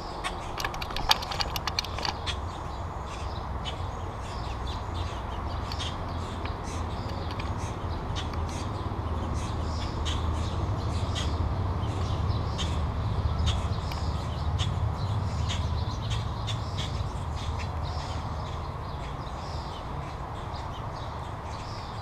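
Birds at a platform feeder close to the microphone: sharp clicks and taps of beaks and feet on the seed tray, clustered near the start, with short high bird calls repeating every second or so. A steady low rumble runs underneath and swells in the middle.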